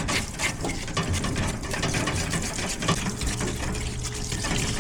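Parts washer running: its pump hums steadily while cleaning fluid pours and splashes over a differential part being washed, with small knocks of the part being handled.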